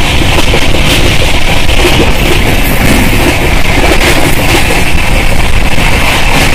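Bhopal Shatabdi Express coach running fast, heard at its open doorway: a loud, steady rush of wind and rolling noise from the train.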